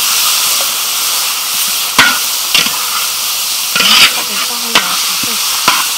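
Sliced beef with chili and lemongrass sizzling steadily in a large metal wok as it is stir-fried. A metal spatula scrapes and clinks against the wok several times.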